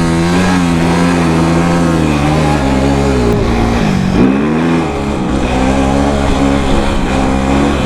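Honda CRF250R dirt bike engine running loud and revving, its pitch dropping and climbing back about halfway through.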